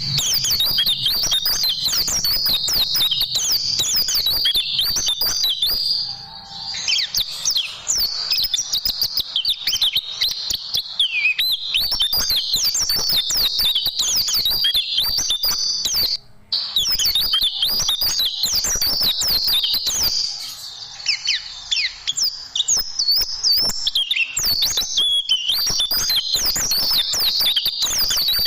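White-eye (pleci) singing a fast, nearly unbroken twittering song of high chirps and trills in rapid-fire runs, with brief breaks about 6, 16 and 21 seconds in.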